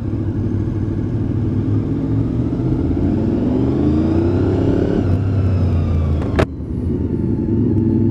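Honda VFR800's V4 engine pulling under acceleration while riding, its note rising for a couple of seconds. A sharp click a little past the middle, after which the revs drop and the engine settles to a lower steady note.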